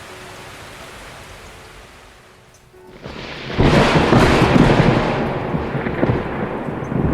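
Soft steady hiss, then about three and a half seconds in a sudden loud rolling rumble of thunder that keeps going.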